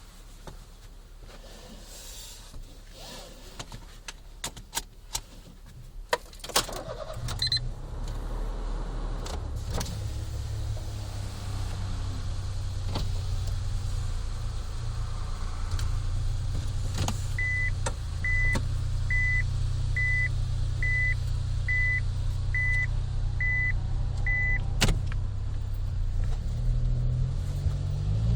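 A Honda Life JB5 kei car's small three-cylinder engine is started about seven seconds in, after a few clicks, and then idles steadily through an aftermarket Rosso Modello GT-8 muffler, heard from inside the cabin with the window open. Midway a run of nine short electronic beeps from the car sounds over the idle.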